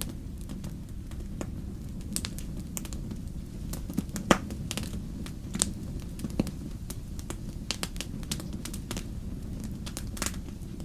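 Campfire burning, wood crackling with irregular sharp pops over a steady low rumble of the flames. The loudest pop comes about four seconds in.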